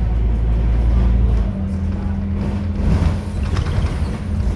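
Scania K230UB city bus's engine running, its note changing about a second and a half in as the deep low hum gives way to a higher steady tone.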